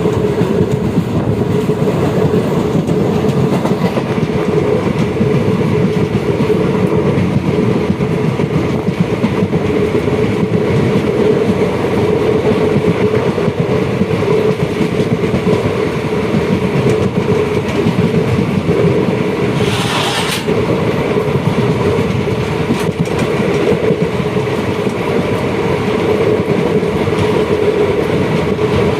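Moving train running steadily on the rails, a continuous loud rumble of wheels and carriages with a steady hum. About two-thirds of the way through a brief higher hiss or screech cuts in.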